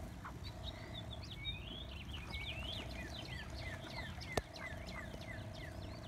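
A songbird singing a fast run of short, falling chirps, over a steady low trill that PANN hears as a frog. A single sharp click sounds about four and a half seconds in.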